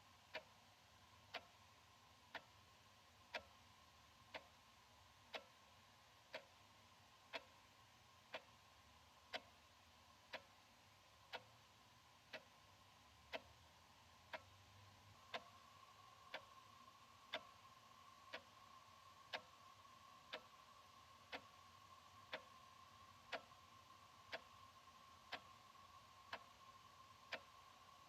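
Analog wall clock ticking steadily, one sharp tick a second.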